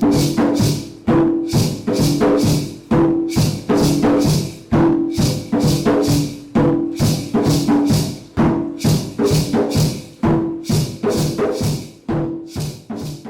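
Drum music: a pitched drum struck in a steady, even rhythm of about two beats a second.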